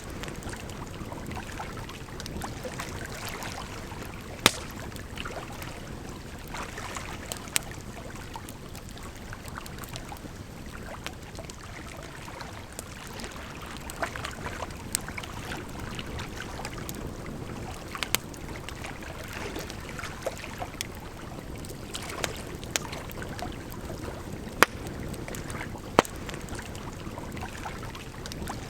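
Campfire crackling, with sharp irregular pops, the loudest about 4.5, 24.5 and 26 seconds in, over the steady rush of flowing water.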